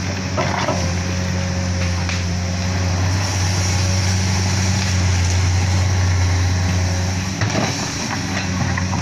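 Heavy diesel engine running steadily at a constant speed, with a few short knocks, one near the start and one about seven and a half seconds in.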